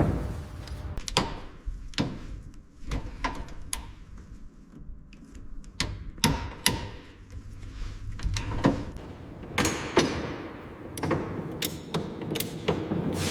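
Irregular sharp knocks and clanks of hands-on work, about twenty impacts at uneven spacing, some ringing briefly.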